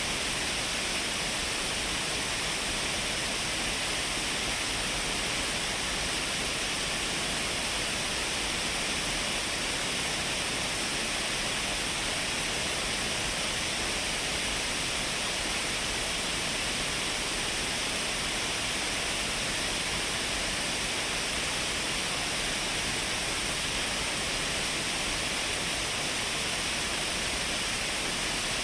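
Shiraito Falls, a wide curtain of many thin streams pouring down a rock face, making a steady, even rush of falling water with no breaks or changes.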